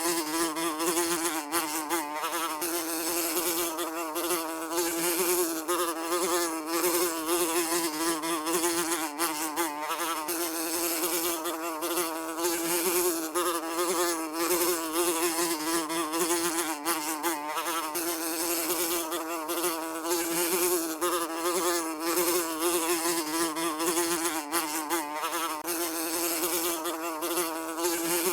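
Housefly buzzing continuously, a steady wing drone with a slight waver in pitch.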